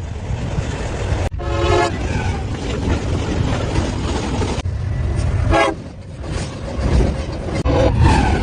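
Heavy low rumble of a passing train, cut through by three short train horn blasts. The blasts come about a second in, at the middle and near the end, and the sound breaks off abruptly between them.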